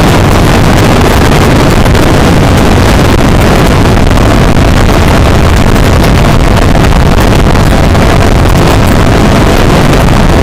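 Riding noise from a motorcycle-mounted camera: steady, loud wind rush buffeting the microphone, mixed with the 2021 Aprilia RS660's parallel-twin engine running at speed.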